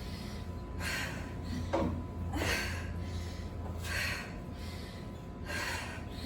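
A woman breathing hard during a set of step-up, jump-up and reverse lunges on a plyo box: sharp gasping breaths about once a second, over a steady low hum.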